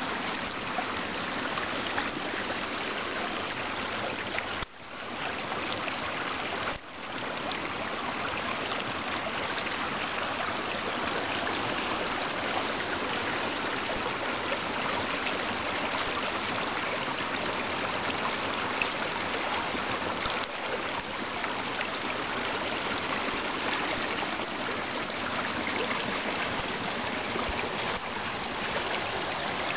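Spring meltwater rushing steadily down a small waterfall, a continuous even wash of water noise. The sound cuts out twice for a moment a few seconds in.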